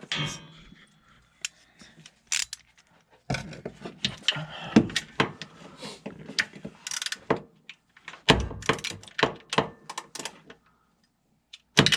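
Ratchet wrench clicking and a socket clanking on metal in irregular clusters as a bolt is worked; the socket keeps slipping off the bolt.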